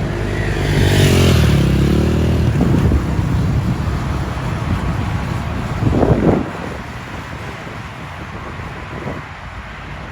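A motorcycle engine, most likely a dirt bike, revving with its pitch rising and falling. A short, sharp rev comes about six seconds in, and after it the engine runs more quietly and steadily.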